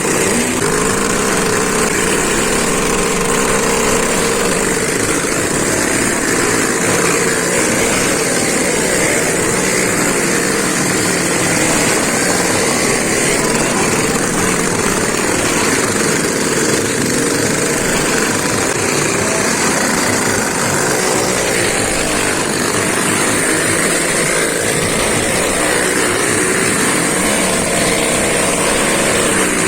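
Motorcycle engines running continuously during a motorcycle stunt show, a loud steady drone with no let-up.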